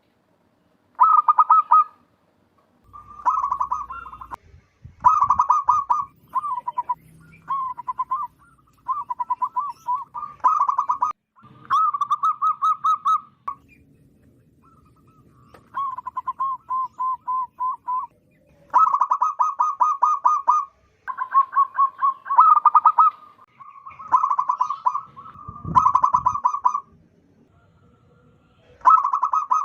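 Zebra dove (perkutut) song: repeated phrases of rapid staccato cooing notes, each phrase a second or two long, with short pauses between them.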